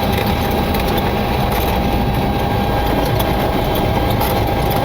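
Steady cockpit noise of a Boeing 727-200 taxiing after landing: its Pratt & Whitney JT8D engines at idle under a rush of air, with a steady high-pitched whine over it.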